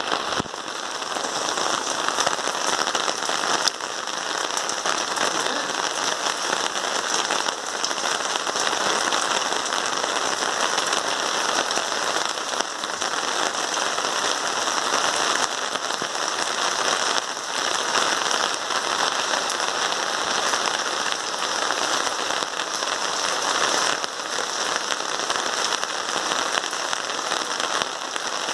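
Steady heavy rain falling and splashing on hard surfaces, an even crackling hiss with small swells and dips.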